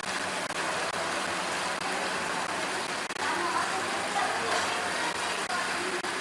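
Steady road traffic noise: a continuous wash of passing vehicles and engines, with faint short fragments of other sounds over it.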